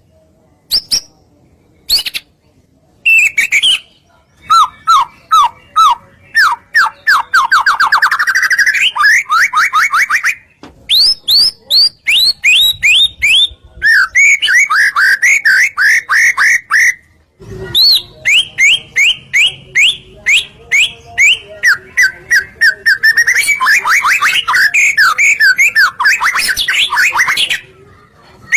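White-rumped shama (murai batu) singing in fast, varied phrases. Each phrase is a rapid run of short repeated notes, some sweeping up and some down, with a few brief pauses between phrases.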